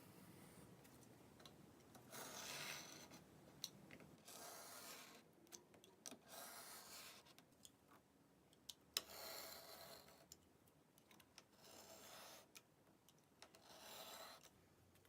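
Utility knife drawn through thick leather, faint scraping slices about six times, each about a second long, with small clicks between strokes.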